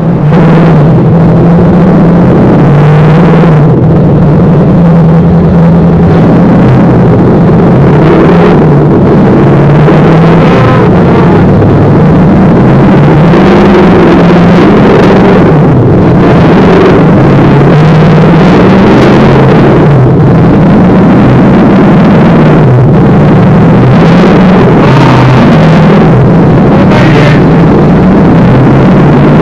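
Toyota 1UZ-FE V8 engine running very loud, its pitch rising and falling with repeated throttle changes.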